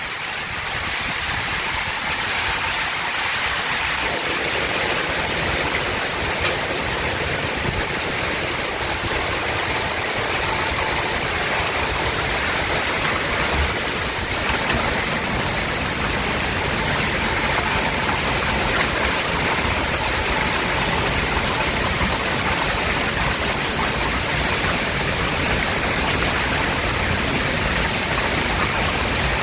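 Heavy rain pouring down steadily in a summer storm, a dense even hiss that grows fuller in the low end after about four seconds.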